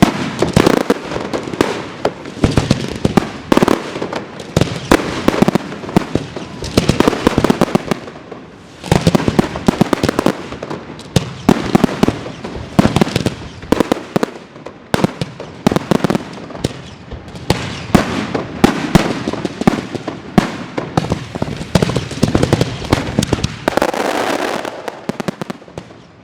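Fireworks going off in rapid succession: dense, loud volleys of bangs and crackling with a brief lull about a third of the way through, dying away at the end.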